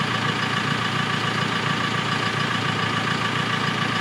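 An engine idling steadily, with a constant hum and a few steady tones over it.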